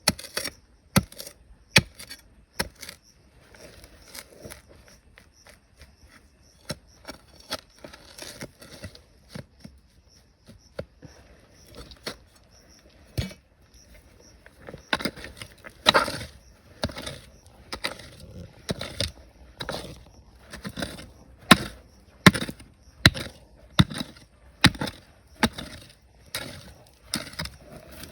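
A hand digging tool striking rock and gravel in a riverbed, in a long run of irregular knocks about one to two a second, heavier and louder in the second half.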